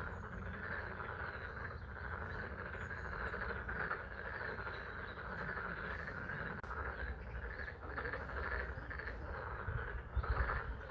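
A steady chorus of many frogs croaking at a pond in spring rain, with a few low bumps near the end.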